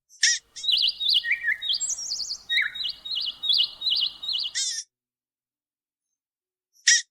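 A small bird singing a quick run of high, warbling whistled notes that repeat. The song stops abruptly about four and a half seconds in and starts again just before the end.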